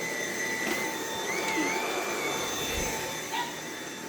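Dyson cordless vacuum running with a steady high-pitched motor whine, its pitch wavering briefly about a second and a half in, with a couple of small clicks.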